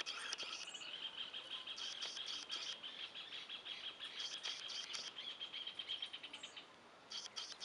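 Small birds chirping: clusters of sharp high chirps every second or two over a steady high trill, which stops about six and a half seconds in.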